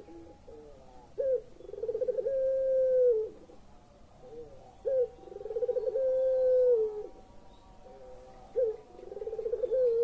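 Puter pelung, a long-voiced variety of the domestic Barbary dove, cooing three times. Each phrase is a short note, then a quick stuttering run, then a long drawn-out coo that drops in pitch at the end.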